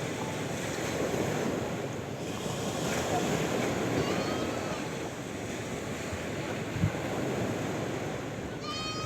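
Sea waves washing and breaking in a continuous surf noise, with wind on the microphone. A faint cat meow comes about four seconds in, and a short low thump near seven seconds.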